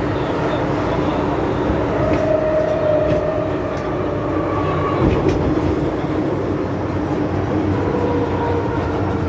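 MTR M-Train electric multiple unit running at speed: a steady rumble of wheels and running gear, with a faint motor whine that shifts in pitch and a single knock about halfway through.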